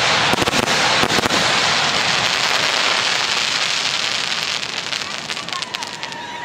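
Professional display fireworks crackling: a dense, continuous mass of small pops that gradually thins out and fades.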